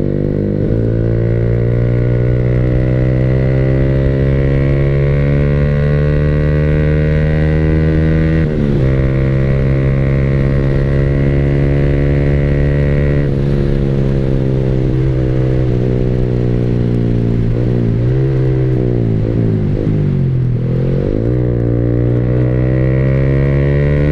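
Yamaha R15 V3's single-cylinder engine running through a new SC Project aftermarket exhaust while riding, with a soft, not very loud exhaust note. It holds a steady pitch with a step change about a third of the way in and again just past halfway, then the revs drop and rise a few times before it settles back to a steady pace near the end.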